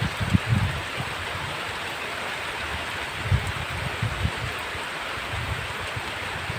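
Heavy rain falling steadily, a dense even hiss, with irregular low rumbles shortly after the start and again around the middle.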